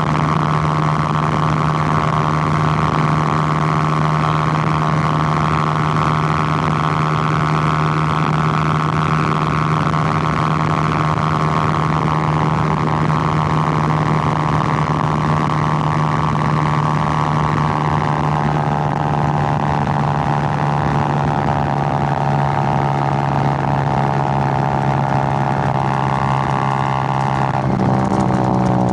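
Suzuki GN125's single-cylinder four-stroke engine running steadily at cruising revs. The note slowly eases lower over the second half, then the revs dip sharply and pick up again near the end.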